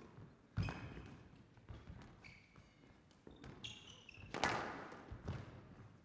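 Squash rally: the ball cracks off rackets and the court walls in a series of sharp hits, loudest about half a second in and again near four and a half seconds, with short high squeaks of court shoes on the floor in between.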